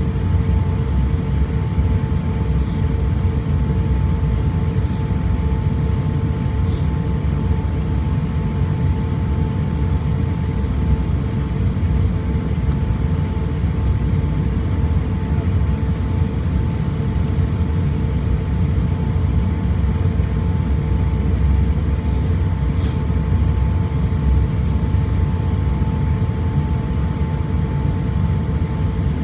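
Steady low rumble of a vehicle interior, with a constant hum at two pitches that never changes.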